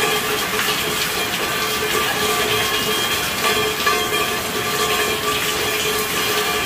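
Steady rain falling, a dense hiss of drops with faint ringing tones mixed in.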